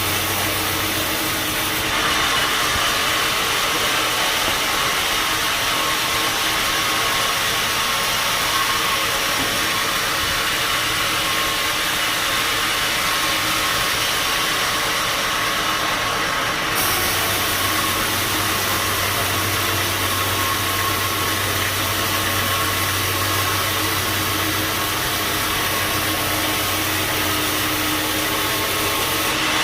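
Band sawmill machinery running with a steady, dense mechanical noise and hum. The sound changes abruptly about two seconds in and again a little past the middle, when the low hum grows stronger.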